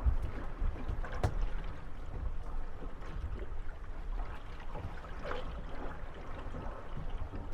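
Moored wooden gondolas rocking on small waves, water lapping at the hulls, with creaks and knocks as the boats bump and rub together. One sharp knock comes about a second in.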